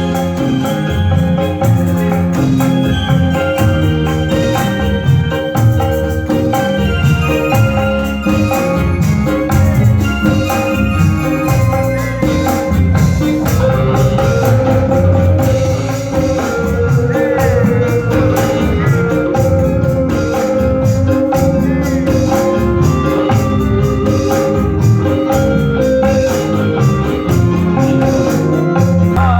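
Modern rebana ensemble playing an instrumental passage: an electronic keyboard melody over a steady frame-drum and jingle rhythm.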